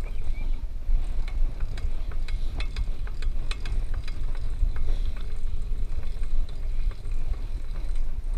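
Wind rumbling on the microphone, with many small irregular clicks and crackles throughout.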